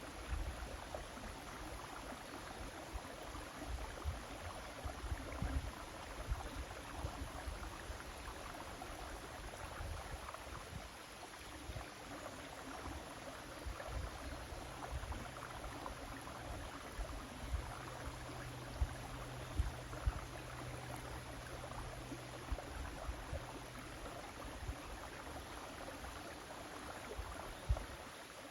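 River water flowing steadily, a continuous even rush. Scattered low thumps sit under it, and a faint low hum runs through the middle for about ten seconds.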